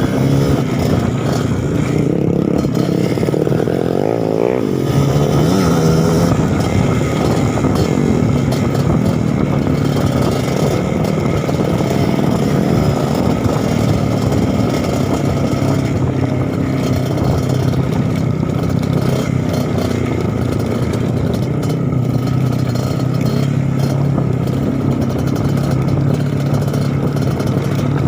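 Suzuki TS 125 trail motorcycle's single-cylinder two-stroke engine running under way. It revs up and down a few times between about 2 and 6 seconds in, then holds a steady pitch.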